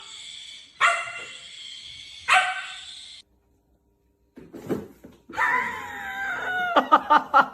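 A dog barking and yelping in two bursts, with a silent break of about a second near the middle.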